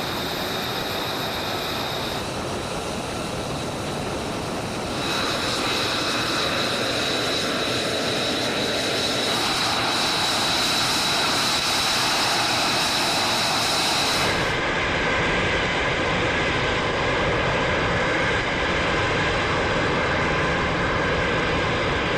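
F-35A Lightning II's single Pratt & Whitney F135 turbofan: a steady, loud jet noise with a thin high whine on top. The sound changes abruptly in character a few times.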